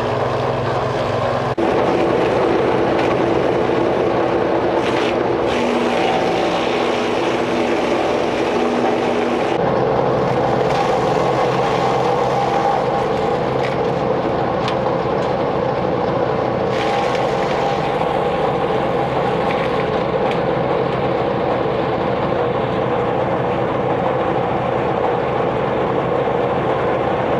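Small engine running steadily under load, with a step up in level about a second and a half in and a change in tone about ten seconds in.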